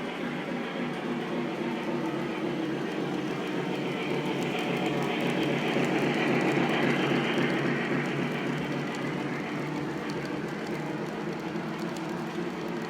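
Lionel O-gauge model train rolling along the track, a steady rumble of wheels on three-rail track that swells as the train passes close and then fades.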